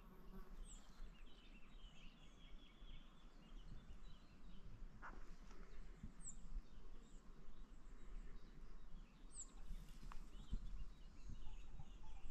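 Faint outdoor ambience with a few short, high-pitched bird chirps and a brief fluttering bird call in the first seconds. Two faint clicks fall about five and ten seconds in.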